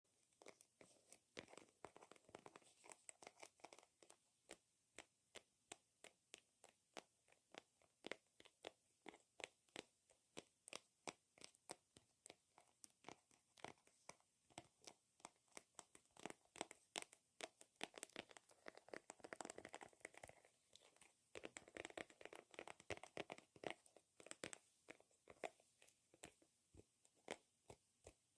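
Long fingernails tapping and clicking on a hard surface: a quiet, steady run of sharp clicks, about two to four a second, with quicker flurries and some soft scratching in the later half.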